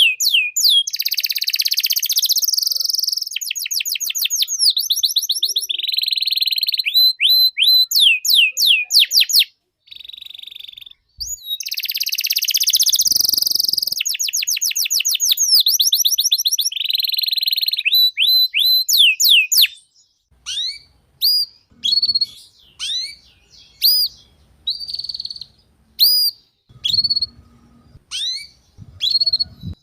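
Domestic canary singing vigorously: a long song of fast trills and rolls, broken by a short pause about a third of the way in, then slower, separate up-and-down chirped notes in the last third.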